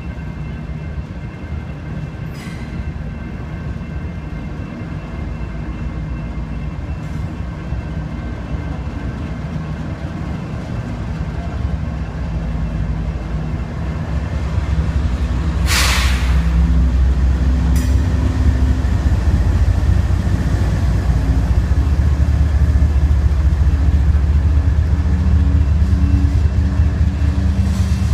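Union Pacific GE ES44AC diesel locomotive and double-stack container freight cars passing on street-running track: a steady rumble of wheels and cars, with the locomotive's low engine drone building about halfway through and staying loud as the unit goes by close. A brief hiss is heard about halfway through.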